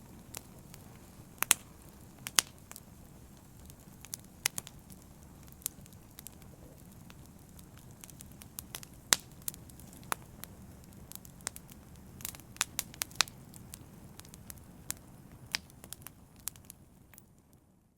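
Open wood fire crackling: irregular sharp pops and snaps, some loud, over a low steady rustle of the flames. It fades out near the end.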